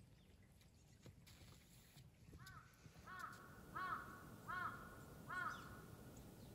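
A bird calling about five times in short, arched calls a little under a second apart, starting about halfway through.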